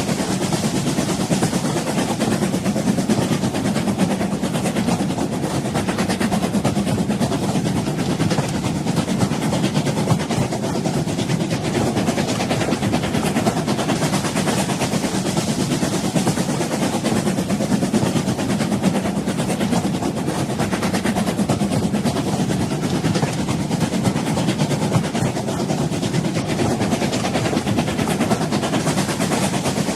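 An old train running steadily: a continuous, even rumble and rattle with no pauses or clear beat.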